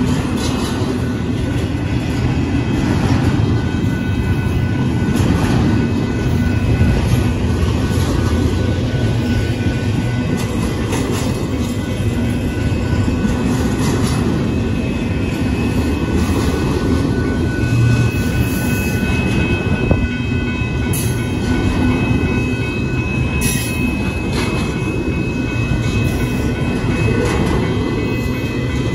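Union Pacific double-stack intermodal train's container cars rolling past close by: a steady, loud rumble of wheels on rail. A thin, steady, high-pitched wheel squeal holds over it for several seconds from about two-thirds of the way through.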